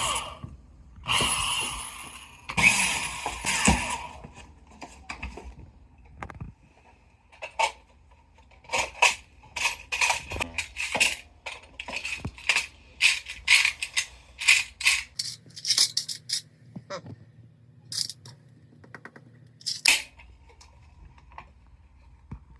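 A scraping rattle of hard objects during the first few seconds, then a long run of sharp clicks and clacks.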